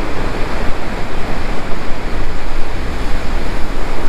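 Sea surf breaking and washing on a beach, a steady loud rush, with wind buffeting the microphone.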